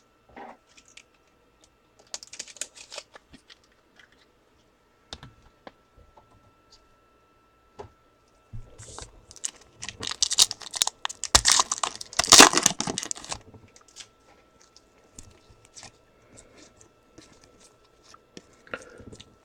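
Trading-card pack wrapper crinkling and tearing open, loudest in a stretch of several seconds near the middle, with light clicks and rustles of cards being handled before and after.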